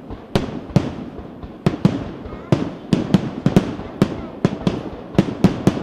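Aerial fireworks going off in a rapid, irregular string of sharp bangs, each with an echoing tail, coming thicker and faster in the second half.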